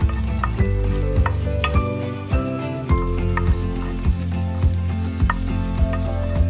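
Chopped garlic sizzling in a frying pan as it is stirred with a wooden spatula, under background music with a steady beat.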